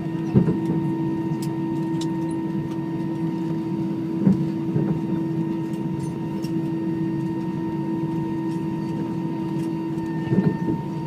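Steady machinery hum holding a few fixed tones, with a few short knocks or clicks over it, about half a second in, around four seconds in and near the end.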